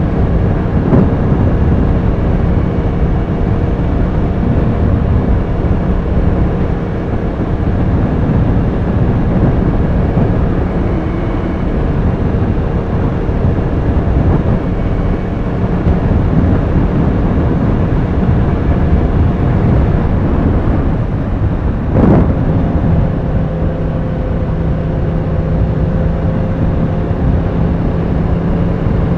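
Yamaha R1 sportbike's inline-four engine running under way, with wind and road noise. About two-thirds of the way through there is a short sharp change in the engine note, after which it settles into a steadier hum.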